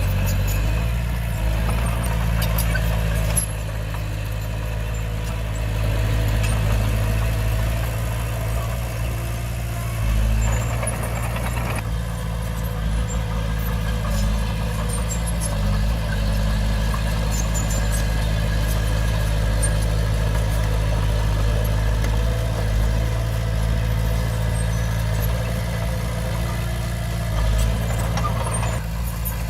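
A Komatsu D20P bulldozer's diesel engine running steadily, with slight rises and falls in load.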